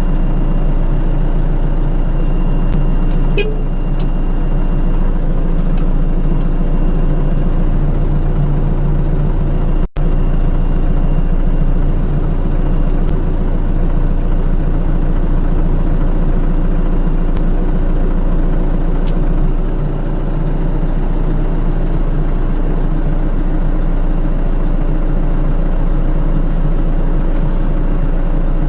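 A vehicle engine running steadily at constant speed, with a low, even hum. It cuts out for an instant about ten seconds in.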